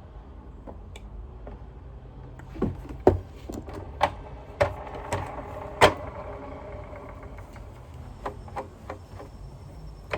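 A series of sharp clicks and knocks from handling vacuum cleaner wheel parts while they are being oiled, over a low steady hum.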